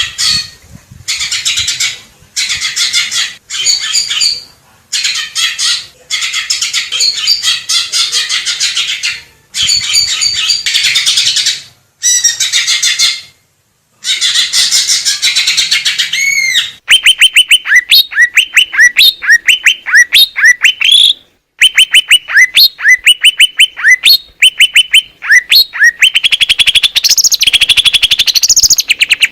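Greater green leafbird (cucak ijo) singing loudly: first a dense, varied chattering warble in bursts broken by short gaps, then a rapid string of sharp downslurred notes at about five a second, with a dense warble returning near the end.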